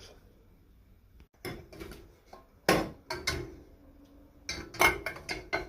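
Dishes and cutlery being loaded into a dishwasher rack: scattered clinks and clatters of plates and utensils, the loudest about a third of the way in and again near the end.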